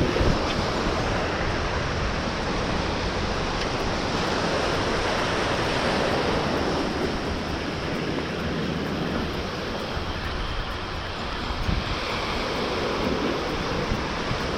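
Steady rushing of wind on the microphone mixed with waves washing over a reef.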